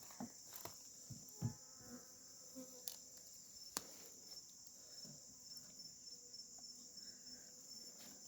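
Insects chirring in a steady, high-pitched, pulsing trill, with a few faint clicks and knocks.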